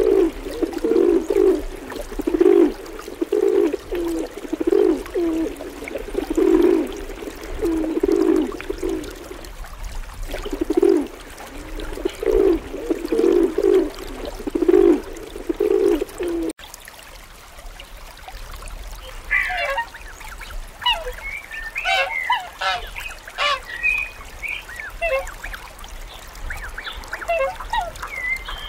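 Rock pigeon cooing, a low coo repeated about once a second with a short pause midway. After a sudden cut, a run of higher, choppy honking calls from waterfowl.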